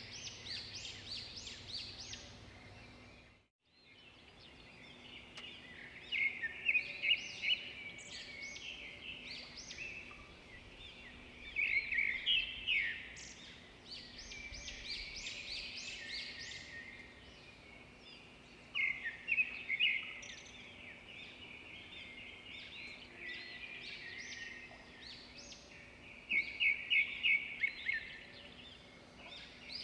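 Edible-nest swiftlets twittering: clusters of fast, high chirps come every few seconds, some as quick regular trains of notes. A brief dropout in the sound comes about three and a half seconds in.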